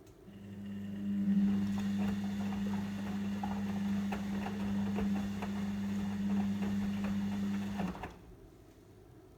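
Logik L712WM23 washing machine giving a steady low hum for about eight seconds, with many small clicks over it, then cutting off suddenly.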